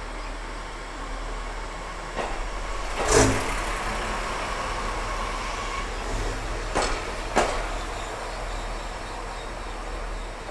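A train running past, with a steady rumble and a faint steady whine in the first half. A few sharp clacks come through, the loudest about three seconds in and a pair near seven seconds.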